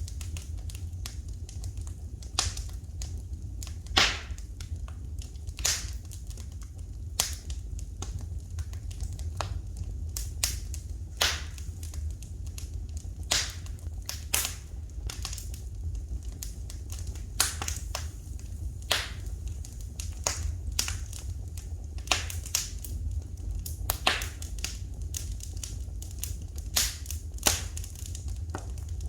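Wood fire in a fireplace crackling, with irregular sharp pops and snaps, some louder than others, over a steady low rumble.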